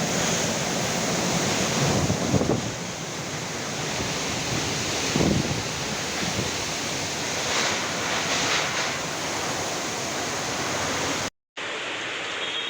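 Heavy rain and strong gusting storm wind as one steady rushing noise, with gusts buffeting the microphone about two seconds in and again about five seconds in. The sound drops out for a moment near the end.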